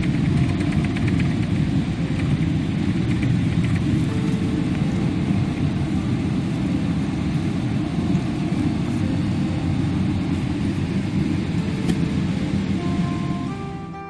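Steady, loud rumble of an airliner heard from inside the cabin. It eases off just before the end as soft music comes up.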